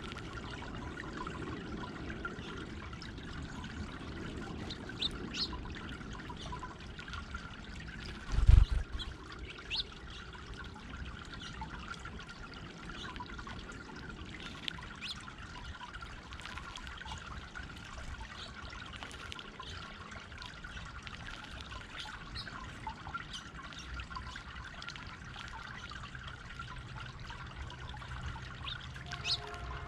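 Water trickling and splashing steadily over a stone-boulder garden fountain. There is a brief low thump about eight and a half seconds in.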